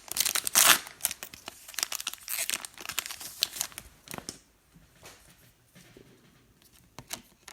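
Foil trading-card pack wrappers crinkling and tearing as packs are opened and cards handled, busy in the first few seconds, then quieter with scattered small clicks and rustles.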